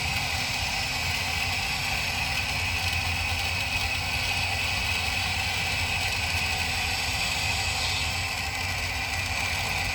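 RC toy excavator running: a steady whirring hum with a constant high whine over it.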